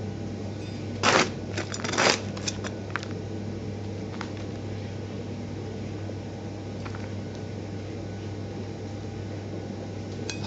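A few sharp clicks and clatters of small objects being handled, bunched about one to three seconds in with a couple of fainter ticks later, over a steady low hum.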